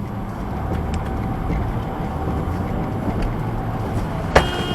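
Steady low rumble of a car driving, engine and road noise, with one sharp click near the end.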